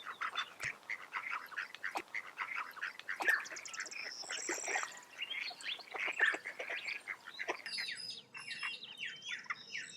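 Birds calling: a rapid, irregular run of short harsh calls, then, a little over two seconds before the end, a steady series of short notes that slide downward, about three a second.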